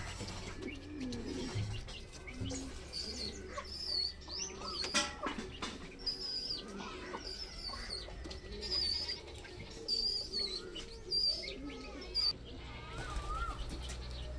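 Pigeons cooing low, with birds chirping in many short, high, wavering calls over a low steady hum. There is one sharp clap about five seconds in.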